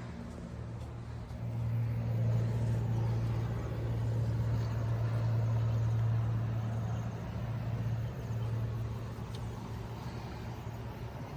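A steady low motor hum, swelling about two seconds in and easing off later on.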